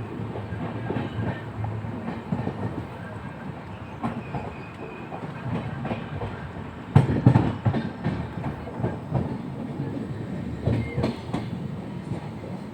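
Moving passenger train heard from inside the coach: a steady rumble with irregular clacks of the wheels over rail joints, and louder clattering about seven seconds in and again near eleven seconds.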